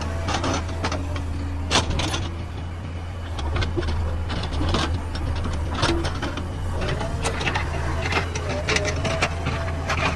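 JCB backhoe loader's diesel engine running steadily under work, with many sharp knocks and clanks scattered over it.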